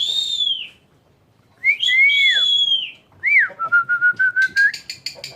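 Pied starling (jalak suren) whistling clear notes that arch up and fall away, three phrases in turn. It then breaks into a quick run of short repeated notes, about five a second, slowly rising in pitch.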